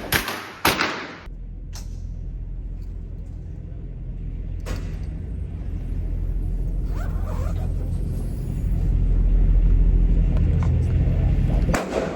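Two sharp gunshots in the first second, then a steady low rumble that swells about three-quarters of the way through. A few fainter shots sound over it.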